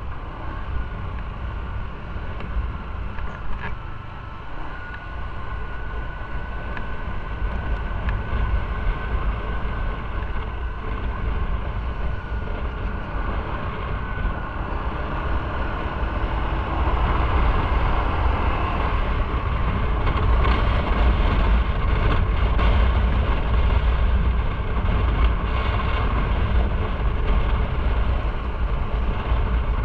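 Motorcycle riding along the road: engine and wind rumble on the microphone, steady, growing louder in the second half as the bike speeds up.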